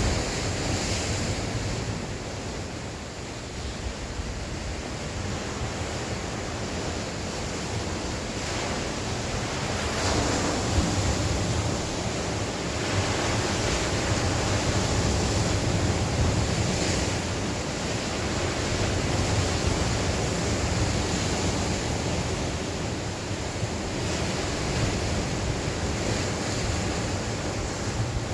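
Sea waves breaking and washing on the shore, in swells every few seconds, with wind rumbling on the microphone.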